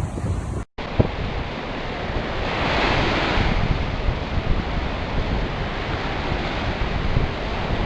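Baltic Sea waves breaking and washing on the shore, with wind buffeting the microphone in a low rumble. One wave surges loudest about three seconds in. A very brief dropout under a second in.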